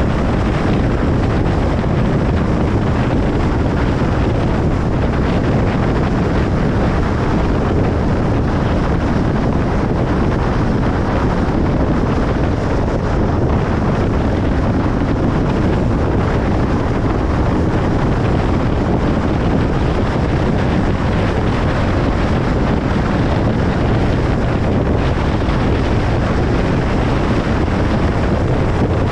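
Car driving at steady highway speed: constant tyre and road rumble mixed with wind noise, with no changes.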